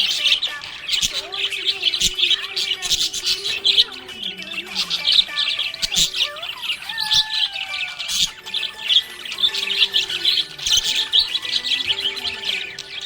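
Budgies chirping: a steady stream of quick, high chirps and squawks.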